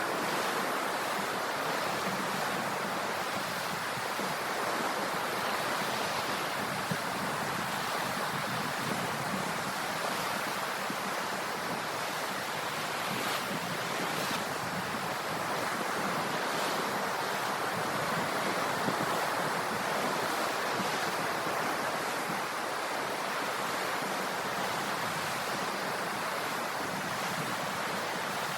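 Ocean surf: a steady, even wash of waves on the shore.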